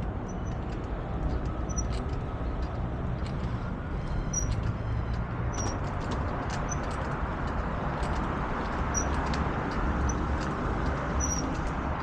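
Steady rumble of wind on the microphone and tyre noise from a moving bicycle, with short high chirps every second or two and a few faint clicks.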